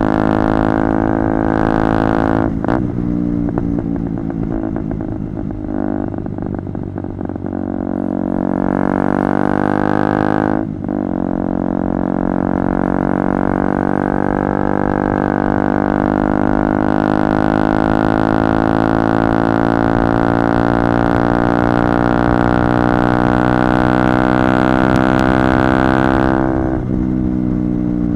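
KTM Duke 125's single-cylinder four-stroke engine, loud through a Radical Racing GP exhaust with its dB-killer missing, running under load as the bike is ridden. The revs change about three seconds in, cut briefly near eleven seconds as at a gear change, then hold a long steady pull with the pitch rising slightly, and the throttle comes off near the end.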